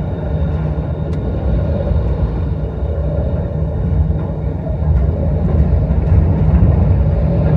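Storm-force wind blowing in strong gusts, heard as a deep continuous rumble of wind buffeting the microphone, with a faint wavering whistle over it.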